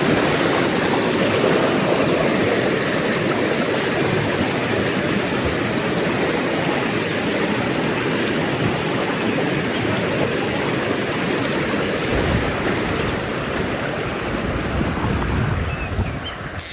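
Mountain stream rushing steadily over rocks, a close, even wash of water. Right at the end comes a brief sharp rattle.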